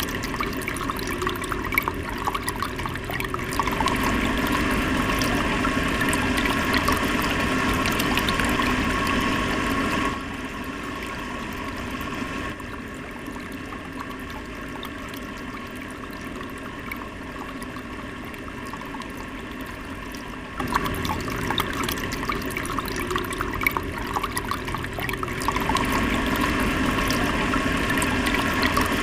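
Small DC mini water pump running with water spraying and splashing. The sound drops quieter about a third of the way in and comes back louder about two-thirds through.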